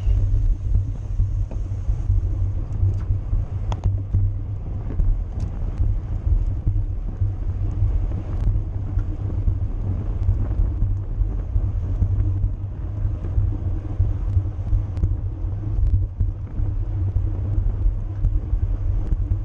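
Steady low wind rumble buffeting the microphone of a camera riding on a bicycle at race speed, with a few faint clicks.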